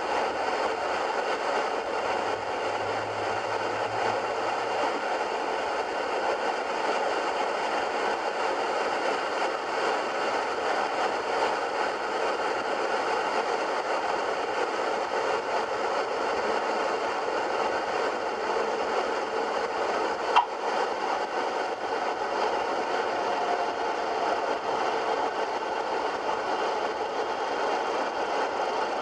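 Cessna 177B Cardinal's engine and propeller running steadily with airflow noise, an even drone, with a single sharp click about twenty seconds in.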